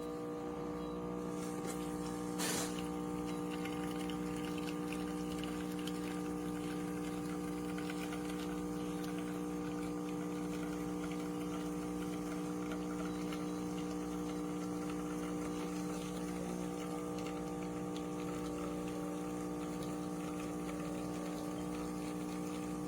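KitchenAid KF8 fully automatic espresso machine's pump running with a steady hum, with a single sharp click about two and a half seconds in.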